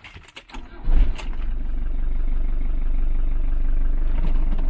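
Fiat Ducato 2.5 turbo-diesel engine started with the key: a few clicks, then it fires up about a second in and settles into a steady idle.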